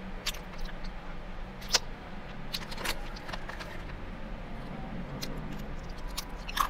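Close-miked chewing and mouth clicks from someone eating, scattered soft clicks with a sharper one about two seconds in and another near the end, over a steady low hum inside a car.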